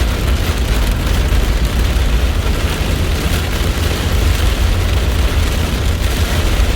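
Thunderstorm: steady heavy rain hiss with strong wind rumbling and buffeting on the microphone.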